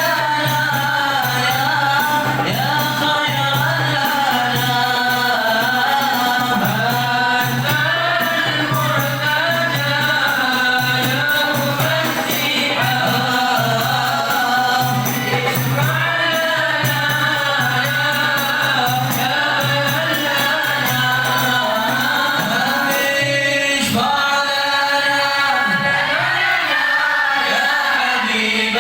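A group of voices chanting a devotional Arabic qasidah together in long, melodic held lines, as in a mawlid recitation.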